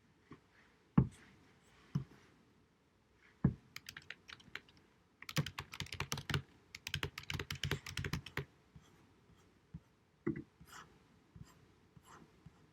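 Typing on a computer keyboard, heard through a low-quality recording. A few separate sharp keystrokes come first, then a fast run of typing for about three seconds starting about five seconds in, then scattered single key presses.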